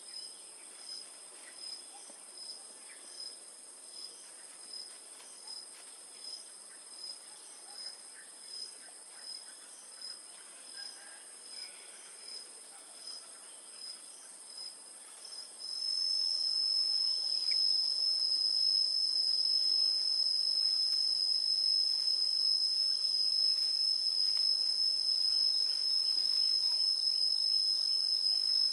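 Insects chirping: a short high chirp repeating about once every 0.7 seconds over a steady high hum. About halfway through, a louder, unbroken high trill at the same pitch starts and holds steady.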